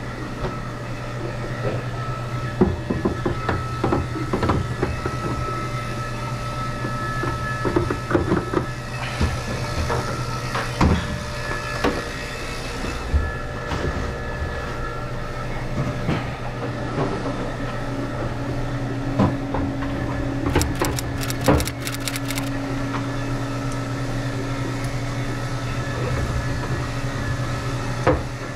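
A steady low motor hum runs throughout, with scattered knocks, clunks and clicks as metal panels and parts of a commercial ice machine are handled, including a short run of rapid clicks about two-thirds of the way in.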